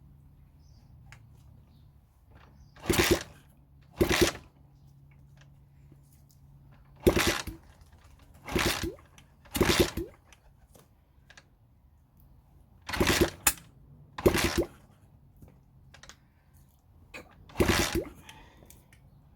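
Honda CB100N single-cylinder motorcycle engine being kicked over again and again, about eight short bursts, without catching. It fails to fire, which the owner puts down to the ignition cutting out again.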